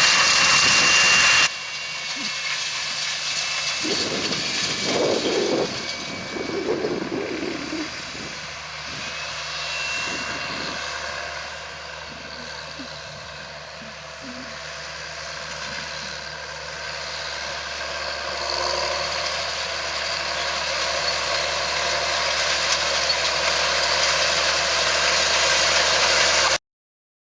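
John Deere 7920 tractor engine running under load while pulling a seed drill through a field. A louder passage breaks off abruptly about a second and a half in. The engine then grows steadily louder over the second half, as if the outfit is coming closer, and the sound cuts off suddenly near the end.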